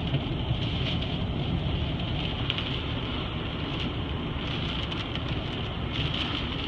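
Rain and wind on a car in a thunderstorm, heard from inside the cabin: a steady wash of noise over the car's low rumble.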